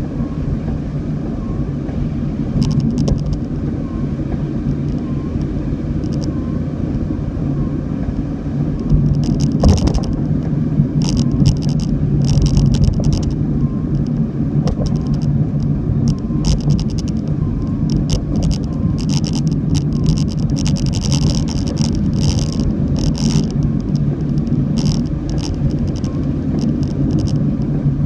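A car driving, with a steady low rumble of engine and road noise. Short hissing spatters come and go over it, more often in the second half.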